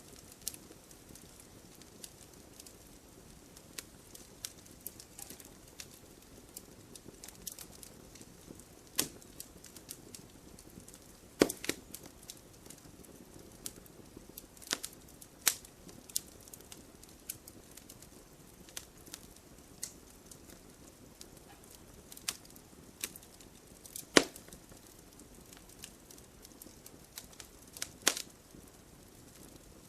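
Wood fire burning in a fireplace: a steady run of small crackles with an occasional loud, sharp pop from the logs, over a faint low hiss.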